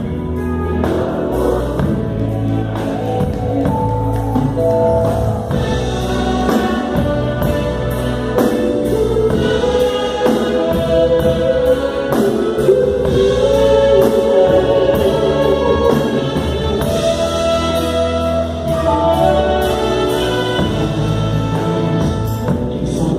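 A song performed with several voices singing together over a band, with a steady beat.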